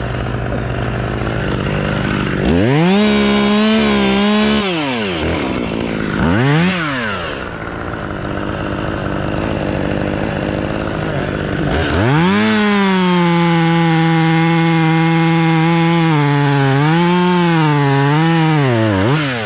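Two-stroke chainsaw idling, then revved to full throttle: a burst of a couple of seconds and a short blip. About halfway through comes a long run at full throttle that sags and recovers in pitch near the end as the chain bites into wood, making a straight drop cut through a trunk section.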